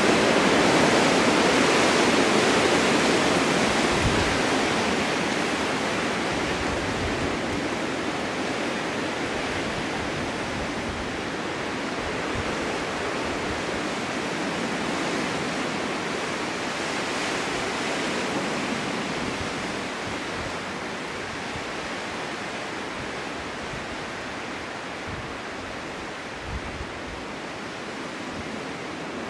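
Snowstorm wind blowing hard in long gusts, swelling strongly right at the start, again more gently about halfway, then easing off. A few faint low thumps sit under the rush.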